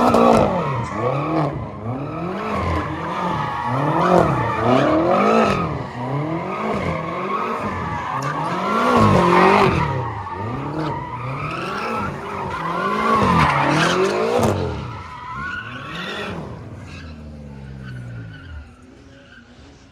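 A car engine revving up and down over and over with tyres squealing, as the vehicle spins donuts; it dies away about three-quarters of the way through.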